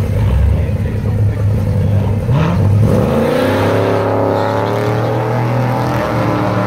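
Two drag-racing cars, a C7 Corvette and a 1960s coupe, rumbling at the starting line, then launching about two seconds in. The engines rev up sharply and keep pulling hard as the cars accelerate away down the strip.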